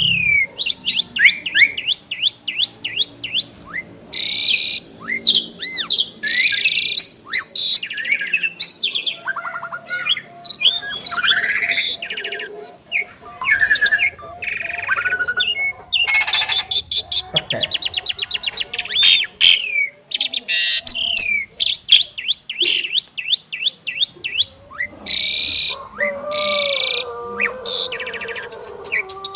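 Two Asian pied starlings (jalak suren) singing together in a long, varied medley. It mixes sliding whistles, chirps, fast clicking rattles and harsh noisy bursts, with lower gliding notes near the end.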